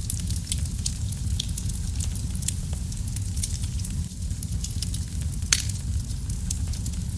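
Wood fire burning in a fireplace: a steady low rumble of flames with frequent sharp crackles and pops, one louder pop about five and a half seconds in.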